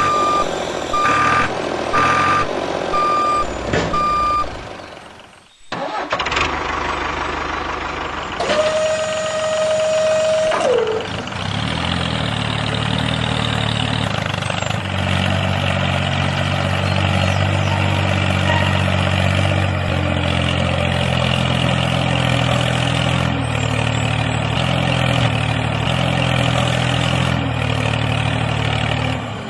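Reversing-alarm beeps, evenly spaced, for the first four seconds or so. After a brief drop-out comes a steady tone of about two seconds that falls off in pitch at its end. Then a heavy diesel tractor engine runs steadily.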